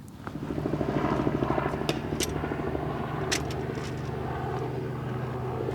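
A vehicle engine comes up about a third of a second in and settles to a steady idle, with a few sharp clicks over it.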